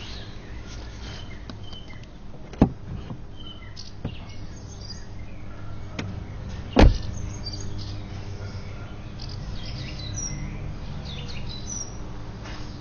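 Small birds chirping and singing in short scattered calls over a steady low hum. Two sharp knocks land about two and a half seconds and seven seconds in, the second one louder.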